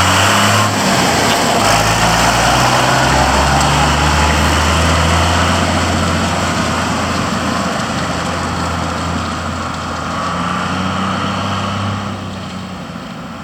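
Mercedes MB Trac 1000 tractor's diesel engine running. Its note shifts in the first few seconds, then holds steady, and the sound fades near the end.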